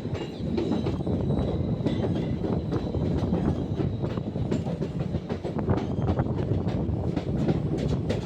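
Passenger train running, with a steady rumble and wheels clattering over the rail joints in irregular clicks.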